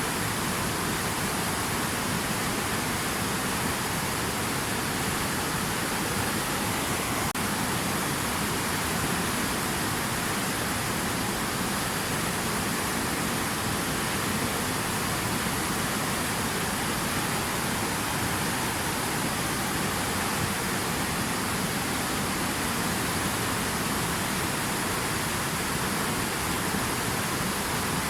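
Steady rushing water: an even, unbroken hiss with no separate splashes or drops.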